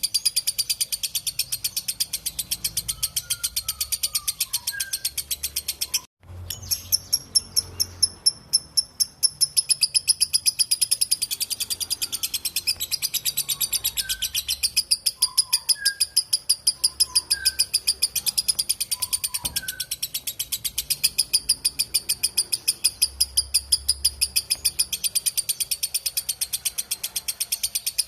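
Lovebird 'ngekek': a long run of rapid, shrill chattering notes, about seven a second, with a brief break about six seconds in. Fainter chirps of other birds sound underneath.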